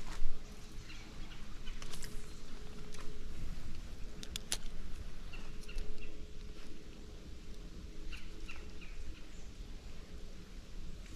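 Birds calling in short, repeated chirps, with a sharp knock right at the start and a click about four and a half seconds in.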